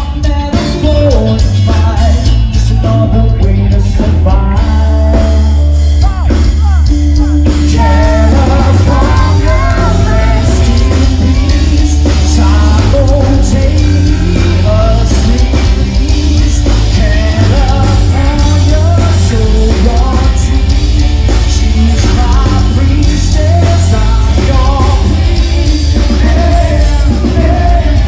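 Live rock band playing, with a singer's voice over a heavy, steady bass line.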